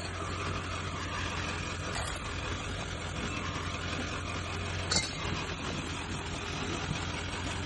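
Steady vehicle rumble with a low hum, and a single sharp clink about five seconds in.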